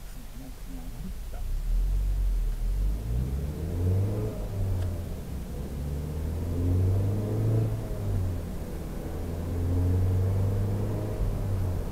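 Car engine heard from inside the cabin as the car pulls away and picks up speed. It gets louder about a second and a half in, then rises and falls in pitch several times over a steady road hiss.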